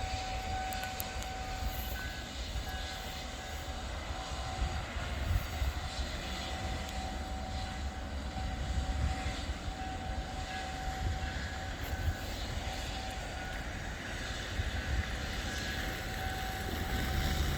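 Distant diesel locomotive of an approaching freight train: a steady low drone with a faint, steady high tone over it, growing louder near the end.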